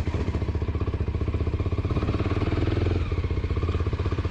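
Kawasaki Ninja sport bike engine idling, with an even, fast exhaust pulse and a slight rise in revs between about two and three seconds in.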